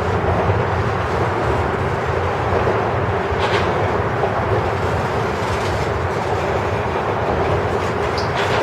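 Freight cars of a grain train rolling past, a steady rumble of steel wheels on rail, with faint brief high squeals about three and a half seconds in and near the end.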